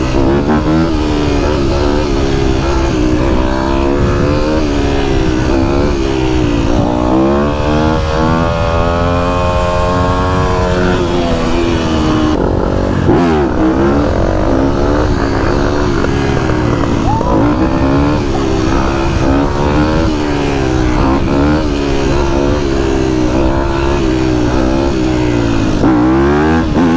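Dirt bike engine revving hard and easing off again and again, its pitch climbing and dropping every second or two. A longer steady high-rev pull comes around the middle.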